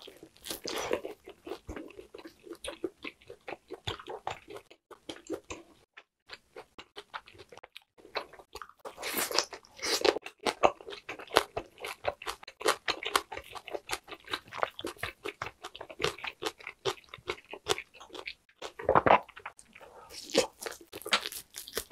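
A person chewing and biting grilled lamb, rack meat and skewered meat, in quick, close chewing clicks. There is a short lull about six seconds in, and louder bites come about nine and nineteen seconds in.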